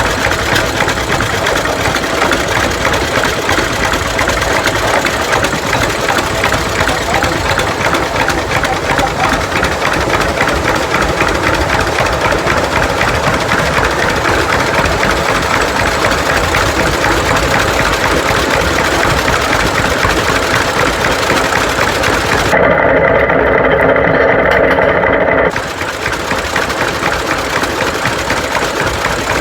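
Tractor engine running steadily with a rapid, even beat. About three-quarters of the way in, a louder sound lasting about three seconds covers it, then the engine is heard again.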